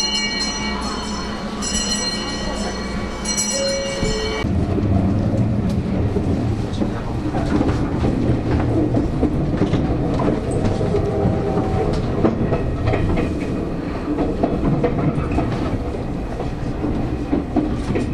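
Coaches of the SL Hitoyoshi running behind Class 8620 steam locomotive 58654, heard from inside the front coach as a steady rumble with wheel clatter. For the first four seconds or so, a high ringing tone with several overtones sounds in stretches and then stops suddenly.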